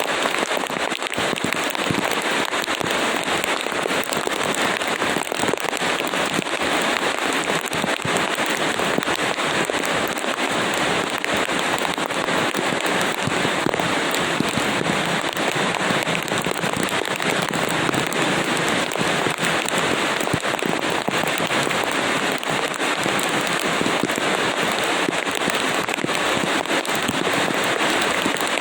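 Steady heavy rain: an even hiss of falling water, dense with sharp taps of individual drops striking a hard surface.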